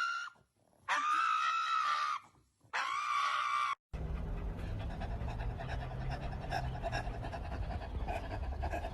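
A dog howls in two long held notes. After an abrupt cut, a dog pants rapidly over a low steady hum.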